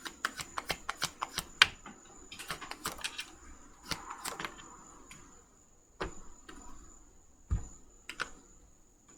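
Tarot cards being shuffled and handled: a quick run of crisp clicks, then a second flurry, then a few scattered taps and knocks as cards are drawn and laid down.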